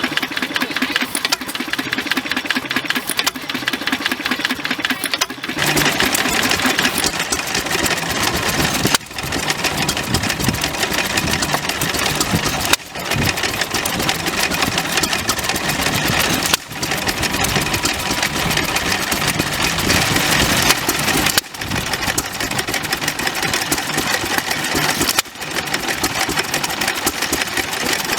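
Vintage stationary engines running steadily, one after another, the sound changing abruptly every four seconds or so from one engine to the next.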